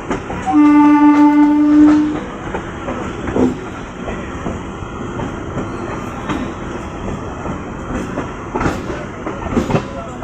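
A train horn sounds once for about a second and a half near the start. Under it runs the noise of a moving MEMU electric train, its wheels clicking over rail joints every couple of seconds.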